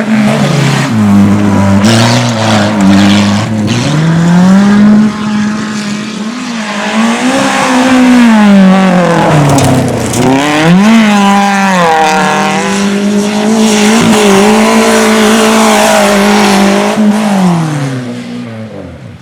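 A car engine revving hard, held at high revs for long stretches with repeated dips and climbs in pitch, then fading near the end.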